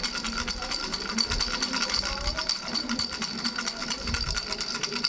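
Three-bell baby rattle shaken continuously, a rapid jingling of many small clicks over a steady high ringing of the bells.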